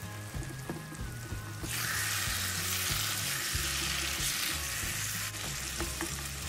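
Chicken pieces sizzling as they fry in hot spiced oil in a karahi over medium-high heat, stirred with a wooden spatula; the sizzle gets louder about two seconds in. Low notes of background music run underneath.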